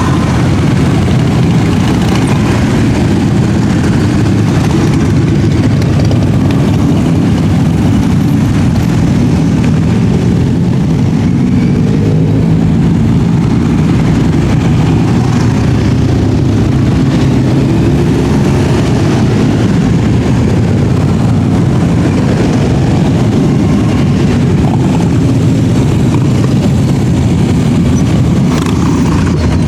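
Many motorcycle engines running together as a large group of bikes rides past, a continuous loud rumble. One engine revs up near the end.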